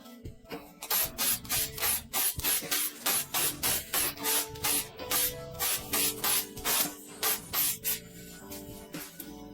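Rhythmic hand rubbing or scraping, about two even strokes a second, over background music; the strokes stop near the end while the music goes on.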